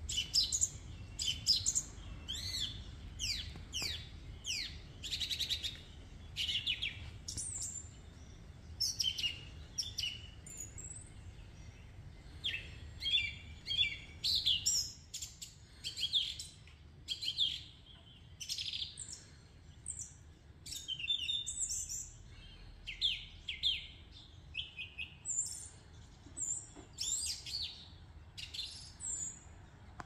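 Small birds chirping and singing: a busy run of short, high chirps and quick downward-sliding notes, one after another, with a faint low rumble underneath.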